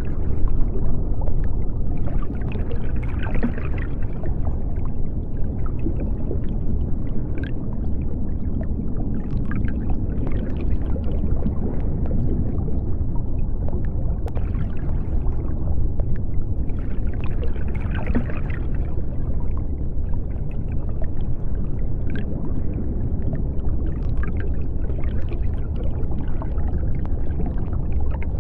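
Underwater sea ambience: a steady deep rumble of water with hissing, bubbling swells about every seven or eight seconds and a few faint clicks.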